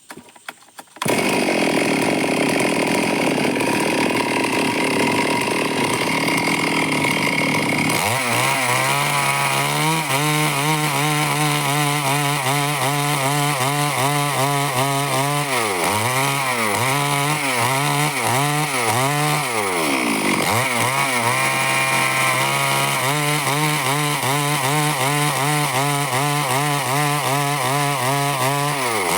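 Stihl two-stroke chainsaw cutting wood, starting suddenly and loudly about a second in. Its engine note sags and recovers over and over as the chain bites into the wood under load, with two deep dips in the middle.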